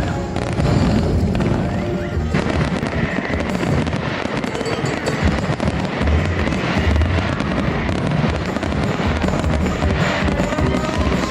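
Fireworks show shells bursting in quick, continuous succession, with a music soundtrack playing alongside.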